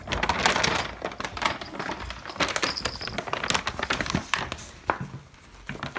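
Irregular rapid clicking and rustling, like objects being handled.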